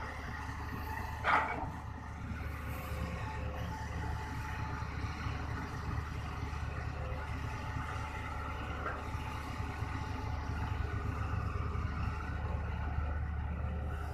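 Hitachi ZX200-1 excavator's diesel engine running steadily under load while it digs and loads soil into a dump truck, with one short sharp knock about a second in.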